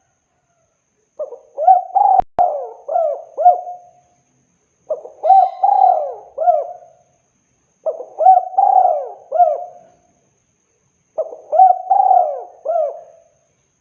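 Spotted dove (tekukur) cooing: four song phrases, each a quick run of several coo notes, with a pause of about a second between phrases. A brief click sounds during the first phrase.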